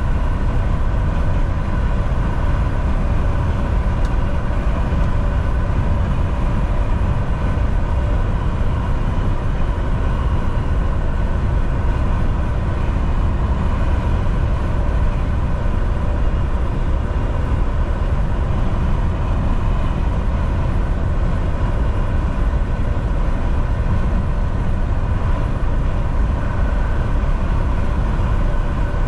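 Volvo VNL 760 semi truck cruising at a steady highway speed: an even, unchanging low drone of its diesel engine and tyre and road noise, with a faint steady whine over it.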